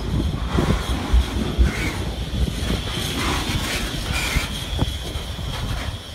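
Double-stack intermodal freight train's loaded well cars rolling past: a low rumble and clatter of steel wheels on the rails, with a faint steady high-pitched wheel squeal. The sound eases a little as the last car goes by near the end.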